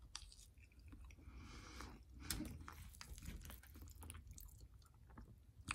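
Faint chewing of a mouthful of buffalo chicken mac and cheese, with scattered small clicks.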